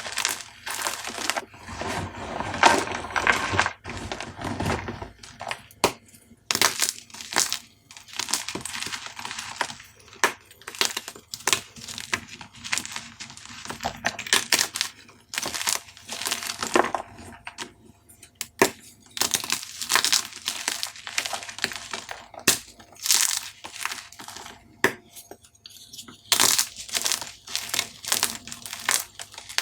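Dyed gym chalk cubes being crushed, a dense run of crunchy crackles and snaps that comes in bursts with short pauses between.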